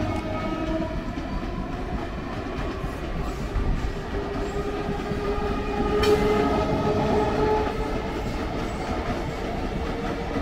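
Electric multiple unit suburban train passing along the track: a steady rumble of wheels on rail with the clickety-clack of wheels over rail joints, and faint whining tones above it. There is a sharp click about six seconds in.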